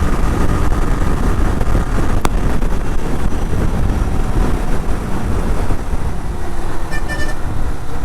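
Steady rumble of wind and road noise from riding a motorcycle, with a short vehicle horn toot about seven seconds in.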